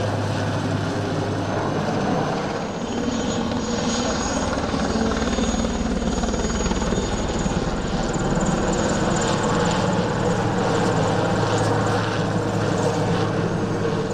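IAR-330 Puma helicopters flying overhead, with a steady rotor and turbine sound that holds throughout.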